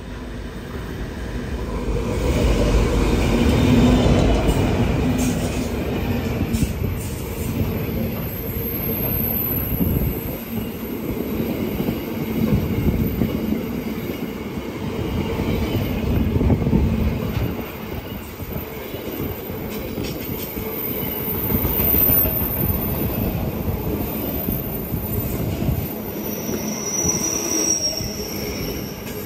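Pacific National NR-class diesel-electric locomotive passing close by at the head of a container freight train, loudest about four seconds in, followed by the wagons rolling past steadily with high wheel squeal on the curve.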